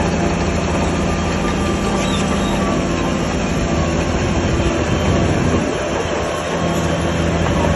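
Shantui crawler bulldozer's diesel engine running steadily, with the metallic clanking and squeal of its steel tracks.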